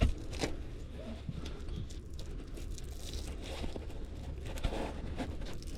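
Rustling and crinkling handling noises, like material being crumpled or torn, with a sharp knock at the very start and a low rumble underneath.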